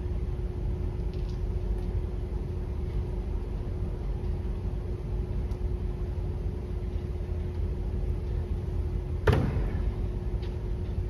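A car running on the road, heard from inside the cabin: a steady low rumble with a constant hum, and one sharp knock about nine seconds in.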